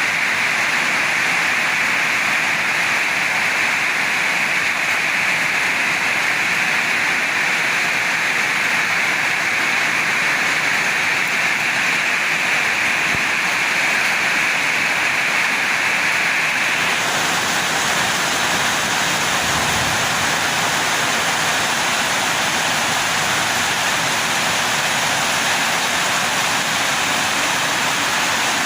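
Heavy rain in strong wind, a steady loud hiss of downpour. A little over halfway through, its tone shifts abruptly to a brighter hiss.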